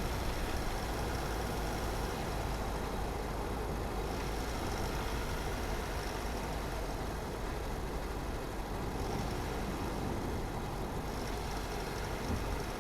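A car driving along a road: a steady rumble of tyre and road noise with the engine running underneath, even throughout.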